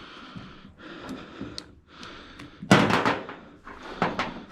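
Tools and metal parts being worked on an engine to get a last bolt out: scraping and rustling, a loud metallic clunk about halfway through and a smaller one near the end.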